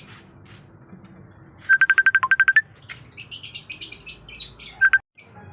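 Mobile phone ringing: bursts of rapid electronic beeps, about a dozen in under a second, repeating about two seconds apart.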